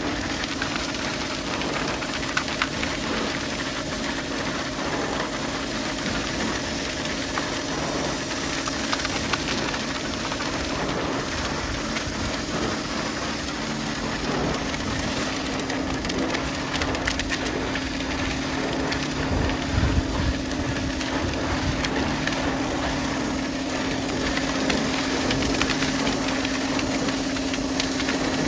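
Pressure washer running: a steady hiss of the high-pressure water jet over a constant motor hum.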